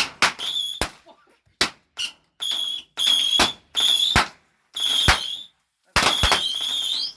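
Small whistling fireworks going off one after another, about seven in all: each gives a short high whistle that ends in a sharp bang, the last whistle the longest, near the end.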